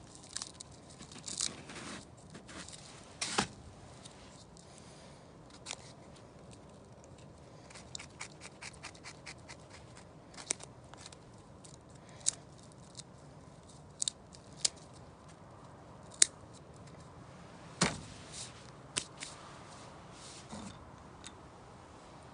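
Scattered sharp clicks and short scrapes from hand work with tools or gear, irregularly spaced, with the loudest click a little over two-thirds of the way in.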